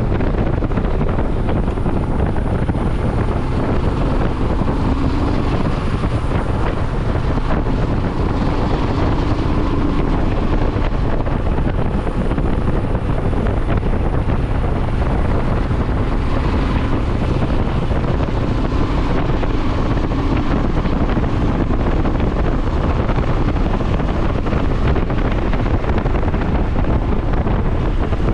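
Riding on a motorcycle: a loud, steady rush of wind buffeting the microphone over the running engine.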